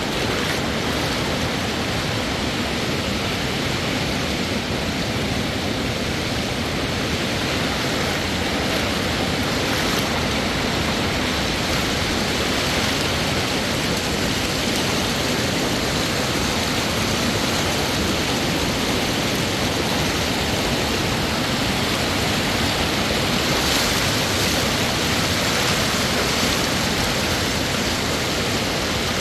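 Fast mountain river rushing: a steady, loud, unbroken noise of running water.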